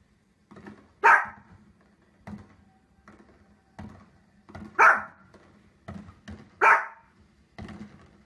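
A small fluffy dog, a Pomeranian, barks sharply three times, roughly two seconds apart, at fireworks on the television. Fainter short booms from the televised fireworks come in between.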